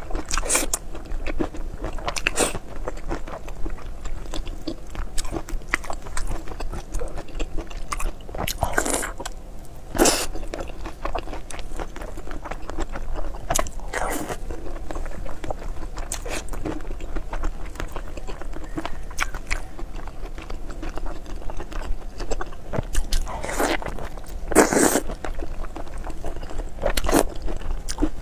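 A person chewing food close to a clip-on microphone, with sharp bites and crunches at irregular intervals. The loudest crunches come about ten seconds in and again near the end.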